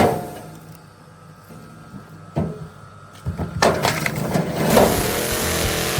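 Firewood-splitting machine striking logs: a sharp knock at the start, another about two and a half seconds in, then a burst of wood cracking and splitting. In the last second a steady, loud mechanical noise takes over.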